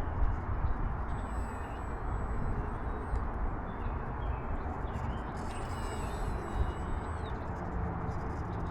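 Gusty wind rushing and buffeting the microphone, a steady low rumble, with faint bird chirps.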